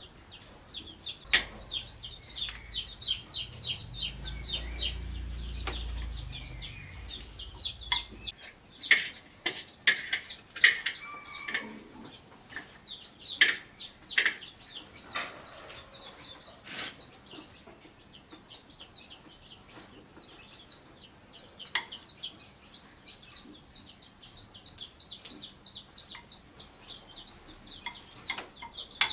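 Chickens calling in a near-continuous run of rapid, high, short peeps. Sharp knocks and clatters come in the middle, and a low rumble sounds in the first few seconds.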